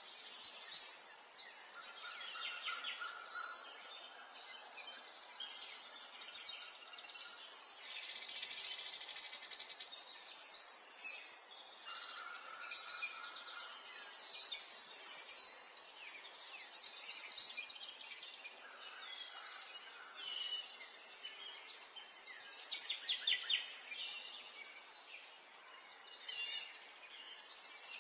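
Several birds chirping and singing, with overlapping runs of rapid high trills and chirps coming and going throughout.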